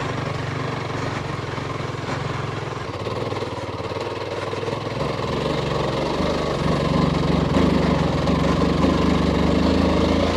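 Royal Enfield Himalayan 450's single-cylinder engine running at low, steady revs, its note shifting and growing a little louder about two-thirds of the way through.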